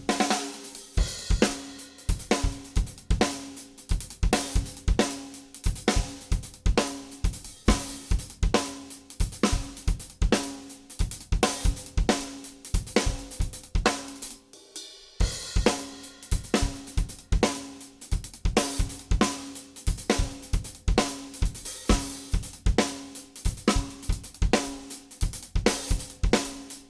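Drum kit played in a steady groove, with kick drum, snare, hi-hat and cymbals, for a sound check. The low hits drop out briefly about halfway through before the beat picks up again.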